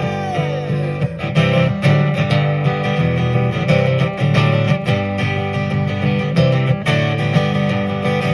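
Gibson jumbo acoustic guitar strummed in a steady rhythm, playing an instrumental passage of a song. A sung "yeah" trails off just as it begins.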